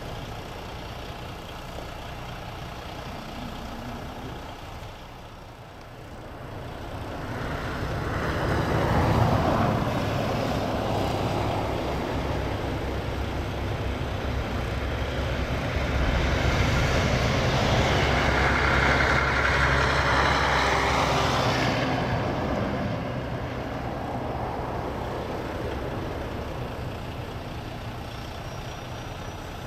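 A large motor vehicle's engine running, growing louder about a quarter of the way in, with a rush of noise in the middle before it eases off again.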